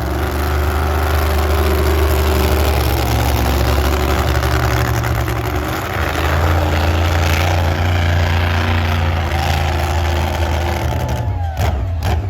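Monster truck engine running loud and steady, with a short dip about halfway through before it picks up again. A couple of sharp knocks near the end.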